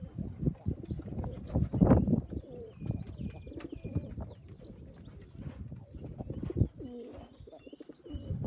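Domestic racing pigeons cooing at the loft, mixed with many short clattering knocks and some higher chirps.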